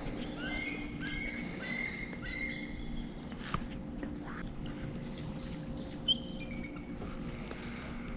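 Birds chirping, with repeated short rising calls in quick runs and more calls in the last few seconds, over a steady low hum.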